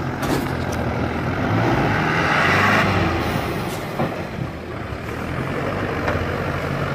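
A heavy diesel vehicle engine running steadily, with a louder hiss rising in about a second and a half in and easing off near the three-second mark.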